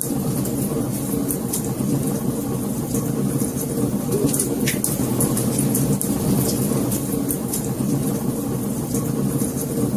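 Fire crackling: a steady low rushing with many small sharp pops and snaps throughout, and one larger snap about five seconds in.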